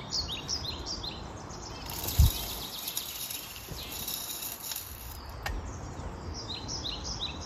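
Small birds chirping in quick repeated series at the start and again near the end. About two seconds in comes a single thump, followed by a few seconds of dry high rattling as birdseed is poured into the feeder.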